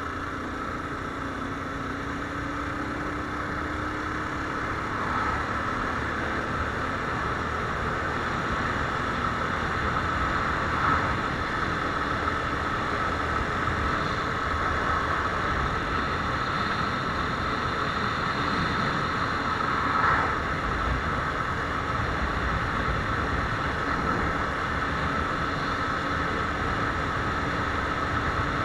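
Viper R2 motorcycle running steadily, its low engine note under a constant haze of wind and road noise, with two brief louder moments about eleven and twenty seconds in.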